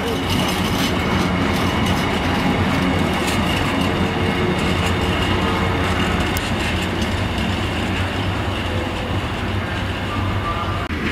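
Container freight train's wagons rolling past, a steady rumble with many small clicks from the wheels and a faint steady high tone above it.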